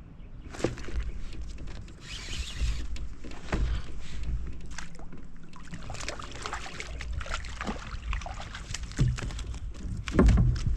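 Knocks, clicks and heavy thumps of gear being handled in a kayak on the water, with a short hiss about two seconds in.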